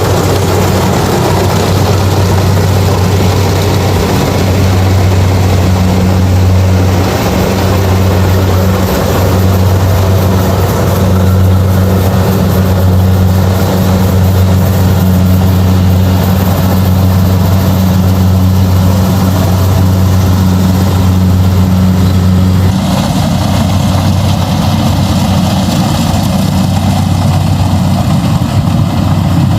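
Kubota DC-70 combine harvester's diesel engine running steadily with a strong low hum, under a broad mechanical rushing noise. About three-quarters of the way through the rushing noise drops away, leaving the engine hum and a steady high whine.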